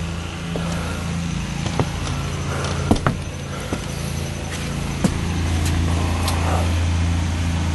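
A steady low mechanical hum, like an idling engine or a running motor, with a few sharp clicks and knocks scattered through it.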